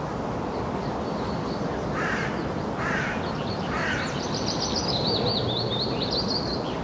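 Three short, harsh bird calls about a second apart. A high, warbling songbird song follows and runs to the end, over a steady background hiss.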